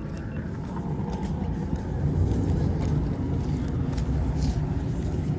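Car engine running close by, a low steady rumble that grows louder about two seconds in.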